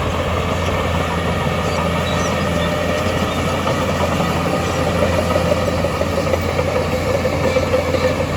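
Heavy earthmoving machine's diesel engine running steadily, a constant drone without revving or impacts.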